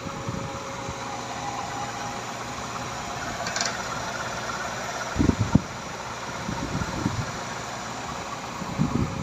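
Blue Bird school bus engine idling steadily, with a few low thumps about five seconds in and again near the end.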